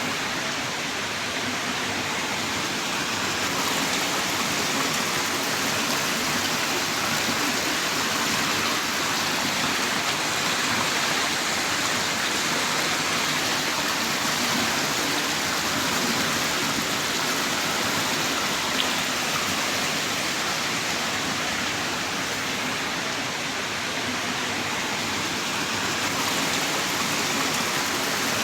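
Heavy rain downpour: a steady, dense hiss of rainfall that holds even throughout.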